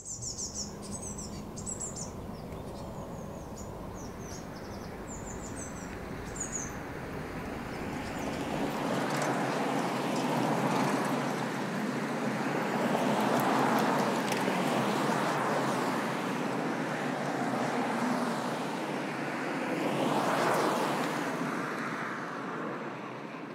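Cars passing on a road: several swell and fade as they go by over steady traffic noise, with birds chirping in the first several seconds.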